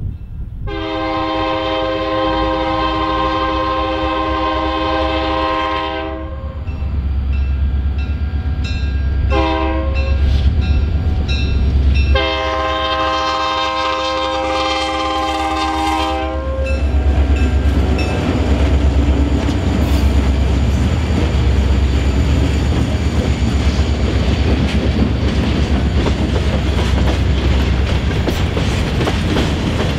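Diesel locomotive air horn led by an EMD GP30 sounding a long blast, a short one and another long one over the low rumble of the engines, the grade-crossing signal. After that the locomotives pass and empty covered hopper cars roll by with a steady rumble and clickety-clack of wheels over the rail joints.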